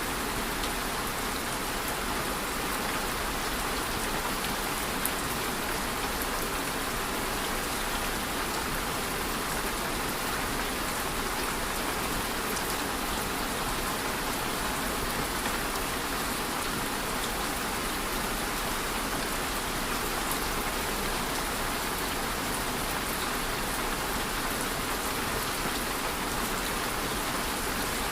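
Steady rain falling, an even hiss of drops with faint scattered patter.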